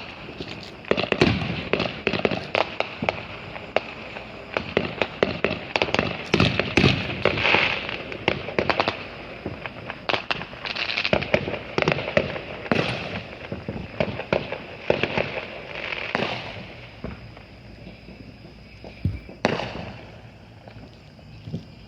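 Consumer fireworks and firecrackers going off: a dense, irregular run of sharp pops, bangs and crackling that thins out after about sixteen seconds, with a couple of louder bangs near the end.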